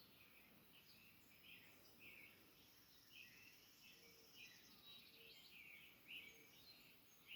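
Faint birdsong: many short, high chirps from small birds, repeating irregularly, with a couple of soft lower notes midway.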